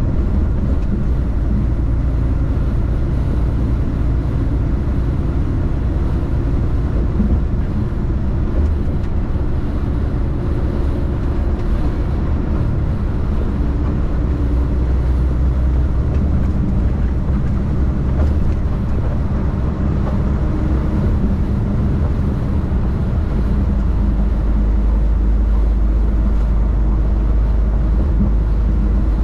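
Heavy diesel truck driving at a steady pace: a continuous low engine and road rumble that grows a little deeper and louder near the end.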